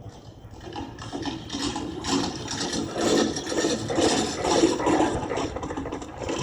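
Sound effect of a horse-drawn chariot setting off, a busy clatter of hooves and rattling wheels that builds about a second in, played over the show's loudspeakers.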